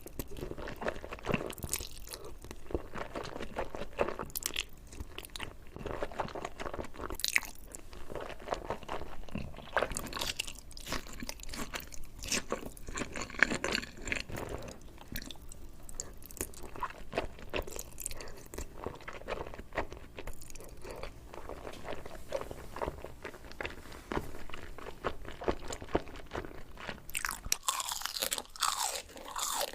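Close-miked eating sounds: a person biting and chewing crunchy food, with dense, irregular crackles and smacks.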